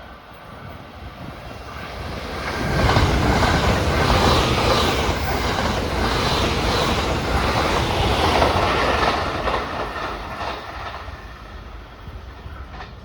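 A train passing by on the rails. It grows louder over the first few seconds, stays loud for about six seconds, then fades away.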